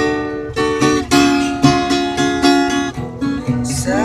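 Instrumental break in a dangdut song: guitar strumming chords in a steady rhythm, a new chord struck about every half second.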